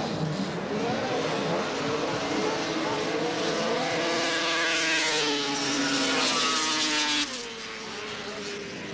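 Racing snowmobile's two-stroke engine on a grass drag run. Its pitch climbs and it grows louder for several seconds, then it drops away suddenly about seven seconds in.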